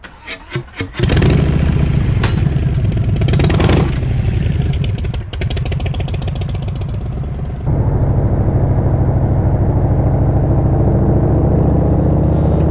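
Harley-Davidson Street Bob 114's Milwaukee-Eight V-twin running loud through Vance & Hines Short Shots exhaust. A few separate pulses open the sound, then a strong engine beat that eases around five seconds in and settles into a steady, even rumble from about eight seconds.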